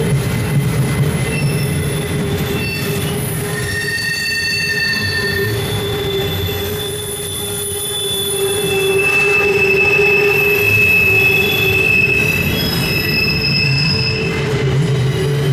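Freight cars of a long CSX intermodal train rolling past over a steady rumble, their wheels squealing on the curve in several high tones that come and go.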